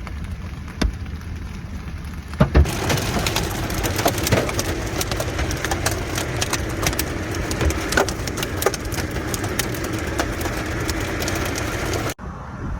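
Large hailstones hitting a vehicle's body and windshield. At first there are scattered impacts with two loud hits, then about two and a half seconds in it becomes a dense, continuous barrage of cracks and knocks over a steady hiss, which cuts off suddenly near the end.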